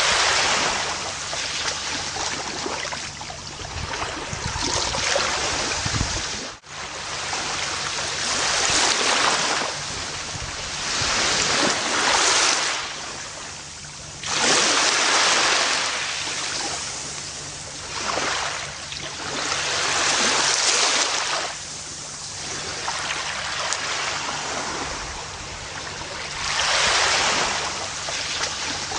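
Gentle ocean waves washing onto a beach: a rush of surf noise that swells and fades every few seconds, with a brief drop-out about six and a half seconds in.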